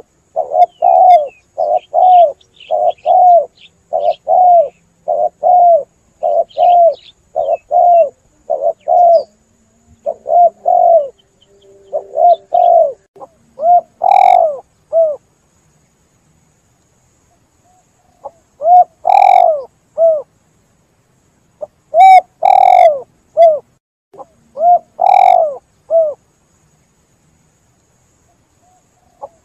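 Spotted dove (tekukur) cooing: a fast run of short coos about two a second for the first dozen seconds, then longer coo phrases with pauses of a second or two between them, and a few seconds of silence near the end.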